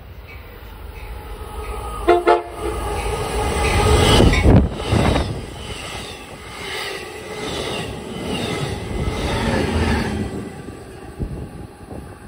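An Amtrak passenger train passing at speed: a short horn blast about two seconds in, then a loud rush of the train going by, followed by a regular clatter of wheels over the rails that fades near the end.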